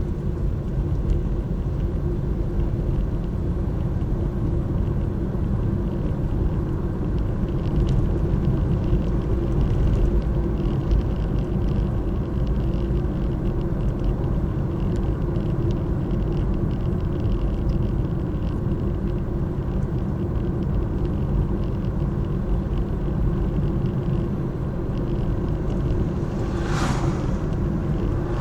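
Steady low rumble of car and road noise, with a brief hiss near the end.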